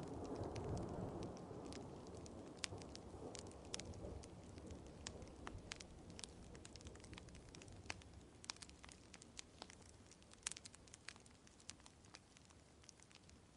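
The low rumble of thunder dies away over the first few seconds. Under it a wood fire crackles with sharp, scattered pops, and rain patters softly.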